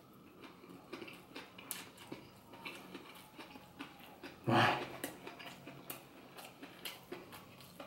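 Close-up chewing of a crusty baguette banh mi: many small crackly clicks at an irregular pace, with a brief voiced sound from the eater about four and a half seconds in.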